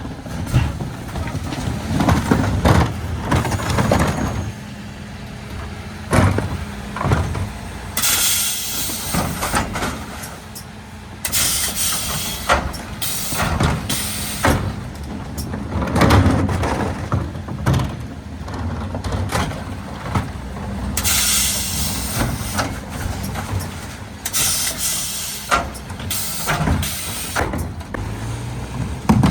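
Mercedes Econic refuse truck at work on a bin collection: engine running, bins knocking and clattering on the Zoeller bin lifters, and several bursts of air hiss lasting a second or more each.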